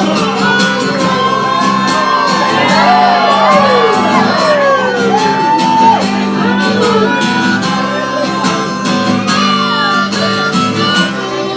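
Live acoustic band playing an instrumental break between verses, with guitar chords and a lead line sliding in pitch over them, and shouts from the crowd.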